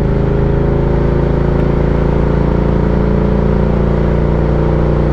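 Ducati Diavel 1260's 1262 cc V-twin engine running under way at a steady speed, its pitch holding level.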